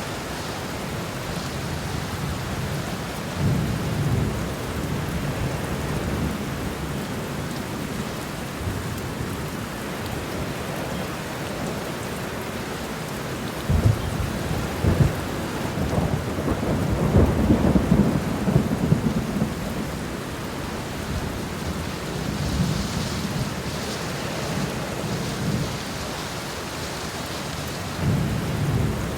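Steady rain falling, with low rumbles of thunder: a short one a few seconds in, a long, loudest rumble through the middle, and another near the end.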